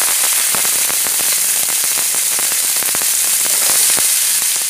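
Cut long beans and vegetable pieces sizzling in hot oil in a non-stick frying pan, a steady loud hiss peppered with quick crackling pops.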